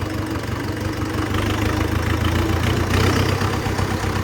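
Tractor's diesel engine running at idle, with a steady low drone that grows louder and heavier about a second and a half in.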